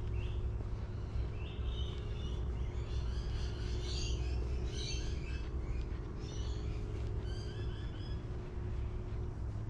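Birds chirping in short, repeated phrases over a steady low background rumble.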